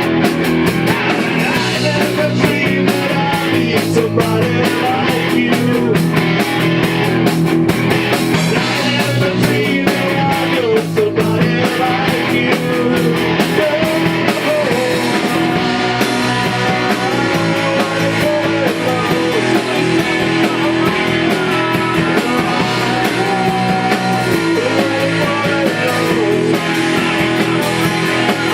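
Rock band playing live: electric guitars, bass and drums.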